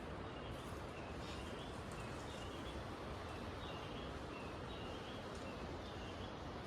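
A bird calling with short, high chirps repeated every second or so over a faint, steady outdoor background.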